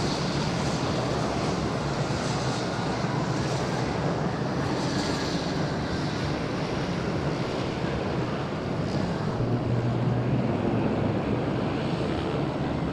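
Fixed-wing aircraft in flight, a steady rushing engine noise.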